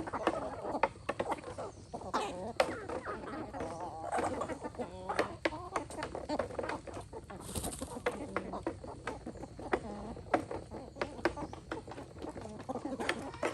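Free-range chickens clucking, with a scatter of sharp clicks and taps throughout.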